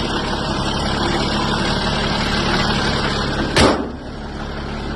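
Old Ford truck engine idling steadily, with a small exhaust leak where the donut gasket has failed. About three and a half seconds in there is a single sharp thump, and the idle is a little quieter after it.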